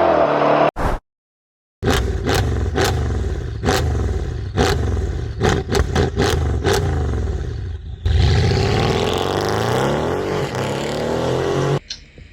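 Sports car engine revving in quick blips with sharp cracks between them, then held in a longer rev that rises and falls before cutting off suddenly near the end; a brief silent gap about a second in separates it from the tail of a previous engine sound.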